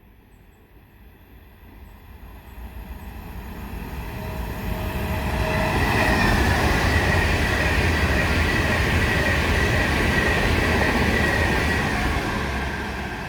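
Class 390 Pendolino electric train passing through: it grows from a faint approach to a loud steady rush over about six seconds, with a high whine running through the loudest part, then begins to fade near the end.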